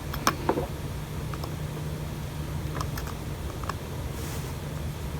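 A few small, scattered clicks and taps of a small screwdriver working at an iPhone SE's bottom screws, over a steady low hum.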